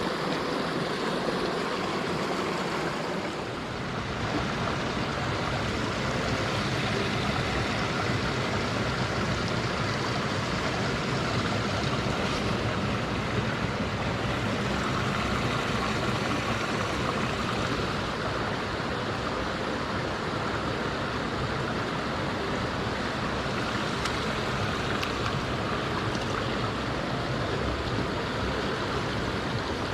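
Mountain stream rushing over rocks, a steady hiss of running water. About three and a half seconds in, a deeper low rumble joins it.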